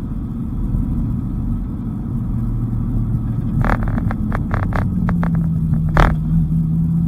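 Dodge Viper GTS's V10 engine running under way, its note steadying and rising slightly after about five seconds. Midway a quick run of a dozen or so sharp clicks or knocks, ending in one louder knock.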